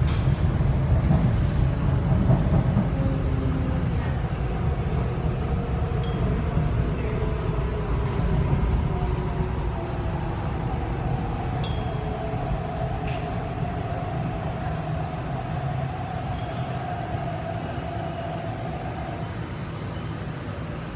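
MTR East Rail Line R-Train electric multiple unit running and slowing into a station, heard from inside the carriage. A steady low rumble of wheels and motors gradually fades as the train slows. A steady electric whine comes in about halfway through and stops shortly before the end.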